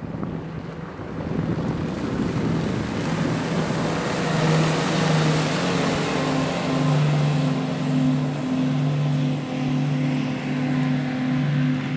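Yamaha outboard motor running as the boat is underway, a steady engine tone over the rush of wind and water, growing louder about two seconds in.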